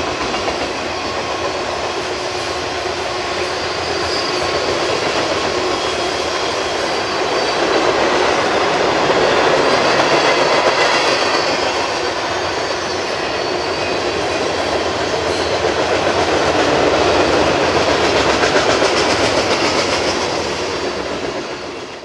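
Freight cars of a passing train rolling by on steel wheels over the rails, a loud steady noise that swells and eases a little, fading out near the end.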